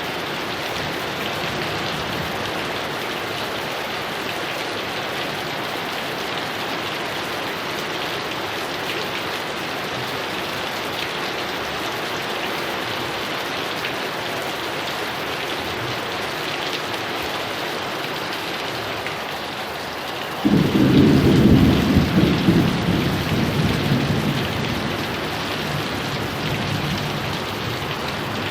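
Heavy rain falling steadily, a dense even hiss. About two-thirds of the way through a thunderclap breaks in suddenly, loud and low, and rumbles away over a few seconds.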